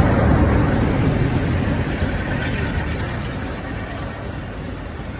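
A train rumbling past, its noise fading gradually as it moves away.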